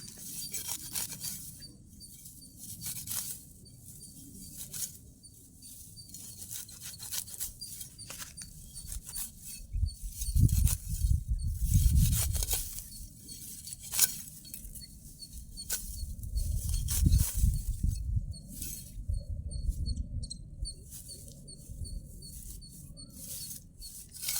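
Rustling and crackling, with two stretches of low rumbling about ten and sixteen seconds in, over a faint high chirping repeated a few times a second.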